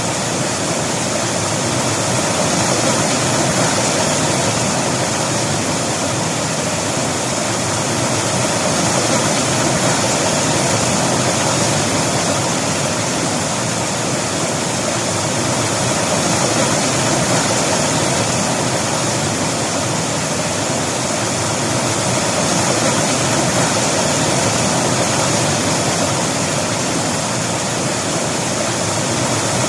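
A river rushing over rocks, a loud, steady wash of flowing water.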